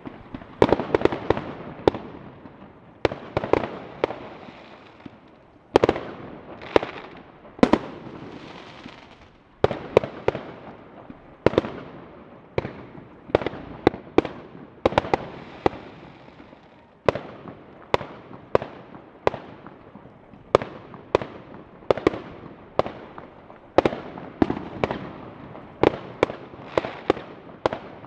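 Fireworks exploding: a continual series of sharp bangs, often two or three in quick succession, each trailing off in an echoing crackle.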